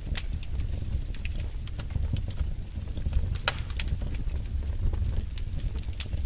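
Wood fire burning in a fireplace: irregular sharp crackles and pops over a steady low rumble of the flames, with one louder pop about halfway through.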